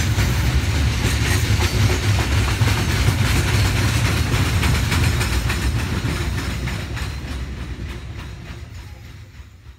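A freight train's wagons rolling past, with steel wheels clicking over the rail joints. The sound fades away as the last wagon goes by.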